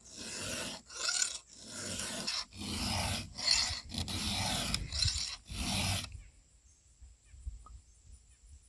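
A file being drawn across a chainsaw chain's cutters in about eight steady rasping strokes, sharpening the chain. The strokes stop about six seconds in.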